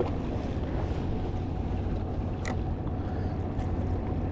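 Steady low rumble with a faint hiss from wind and water around a small fishing boat, and one sharp click about two and a half seconds in.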